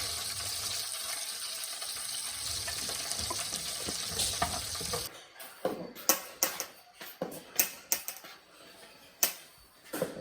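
Water running steadily, like a tap, cutting off suddenly about five seconds in. It is followed by a string of irregular sharp clicks and knocks.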